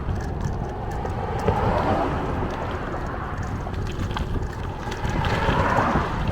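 Wind rushing over the microphone and a bicycle rolling along, with scattered light clicks.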